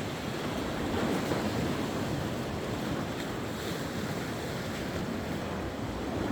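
Sea waves washing onto the shore in a steady rush of surf, with some wind noise on the microphone.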